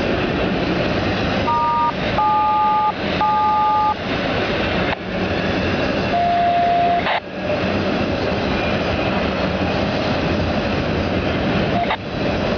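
Railroad radio sending three short two-tone touch-tone (DTMF) beeps, then a longer single tone about 6 s in, over a steady noisy hiss that cuts out briefly a few times.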